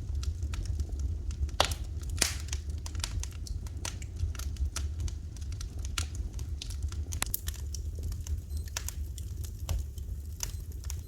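Fire crackling in a fireplace: a steady stream of small snaps and pops, with two louder pops about one and a half and two seconds in, over a low steady rumble.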